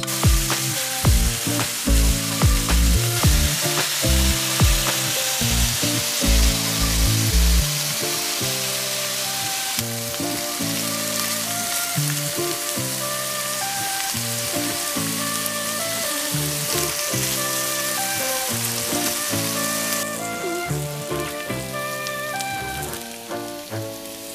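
Shrimp sizzling and frying in butter in a cast-iron skillet, the sizzle dropping off in the last few seconds. Background music with a beat plays over it.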